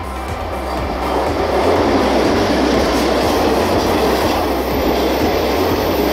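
A passenger train's coaches run past at speed, a steady rumble with clatter from the wheels on the rails. The sound grows louder about a second in and then holds.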